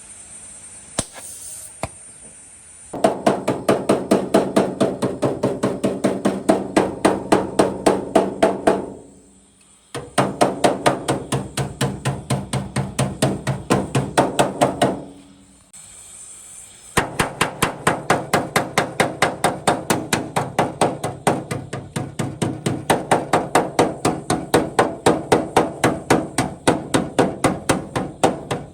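Rapid, steady hammering on the truck cab's metal, about four to five ringing blows a second, in three long runs with short pauses between them.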